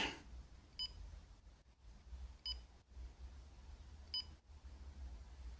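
Three short electronic beeps about a second and a half apart, from the Digitrax DCC system while it reads a locomotive's address on the programming track. A faint steady high whine runs underneath.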